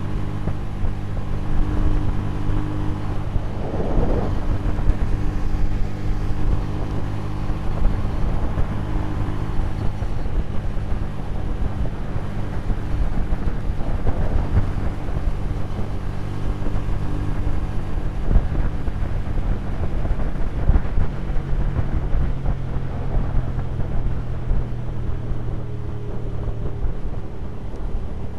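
Hyosung 250cc V-twin motorcycle engine running steadily at highway cruising speed, with wind rushing over the handlebar-mounted camera's microphone.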